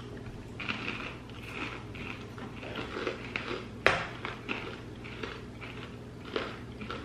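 Chewing of crunchy candy-coated popcorn clusters: a run of short, crisp crunches, with one sharp click about four seconds in.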